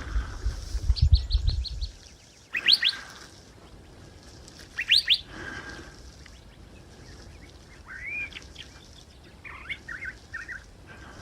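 Songbirds calling: a quick run of high repeated notes, two sharp rising whistled notes, then short arching and chattering phrases near the end. Low thumping in the first two seconds.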